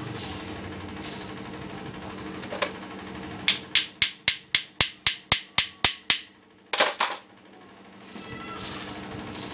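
Hammer tapping a part in a steady run of about eleven sharp blows, roughly four a second, each ringing briefly. After a short pause come two or three more blows close together.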